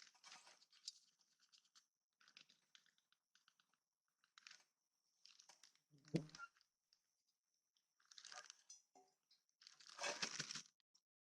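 Faint, intermittent crunching and crinkling sounds in short bursts, with one sharper thump about six seconds in and a louder crunchy burst about ten seconds in.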